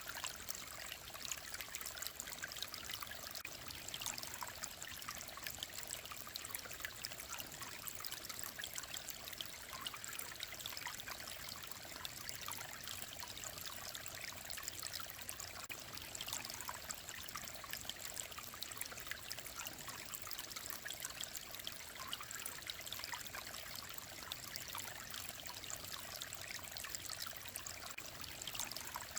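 Mountain stream flowing steadily, a constant rushing trickle dense with small splashes.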